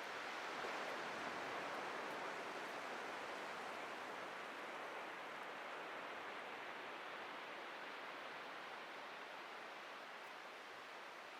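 Atlantic surf washing ashore, a steady rushing hiss that swells about a second in and slowly eases off.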